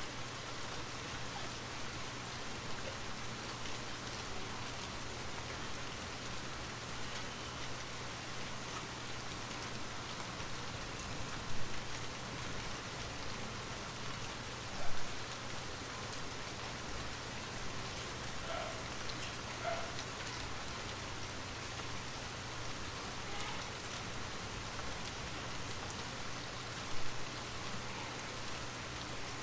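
Steady rainfall, an even hiss of rain on surfaces, with three brief louder hits standing out.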